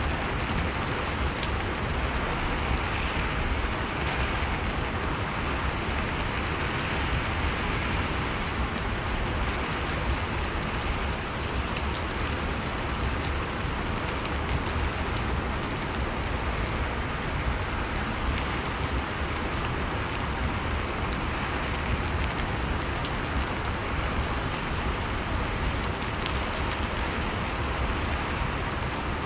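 Steady rain falling, an even hiss with a low rumble underneath and faint drop ticks.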